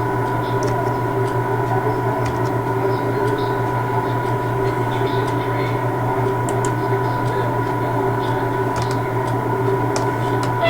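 Steady electrical humming drone of a train standing in the station, made of several constant tones, with a few faint clicks.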